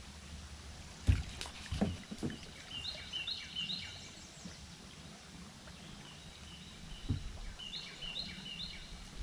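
A songbird sings the same short phrase of quick stepped whistles three times, over a few hard knocks and thumps against the jon boat, the loudest about a second in.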